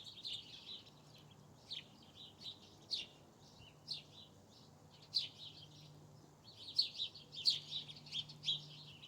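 Small wild birds chirping: many short, high chirps, overlapping and coming thickest about seven to eight and a half seconds in, over a faint steady low hum.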